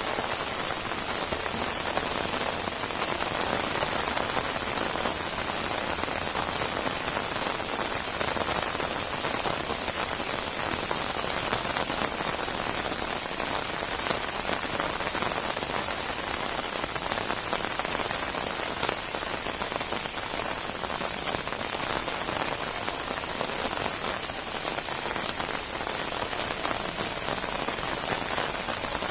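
Steady heavy rain falling on a surface, a dense even hiss of many drops with no breaks or thunder.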